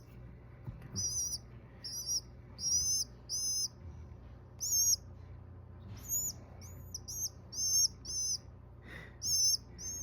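Young rescued bird, taken for a pigeon, peeping over and over in short, high calls, often in quick runs of two to four, as it is fed; these are begging calls.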